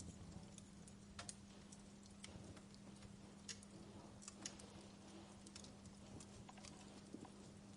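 Wood fire crackling softly: scattered, irregular small pops and snaps over a faint steady low hum.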